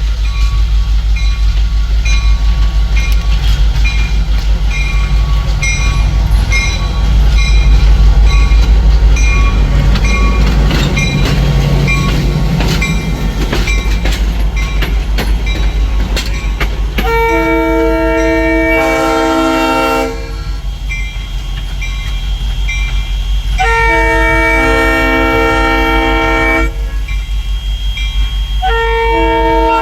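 Steam locomotive running with a heavy low rumble and a steady rhythmic clicking. About halfway through, its chime whistle blows two long chord blasts, and a third starts near the end.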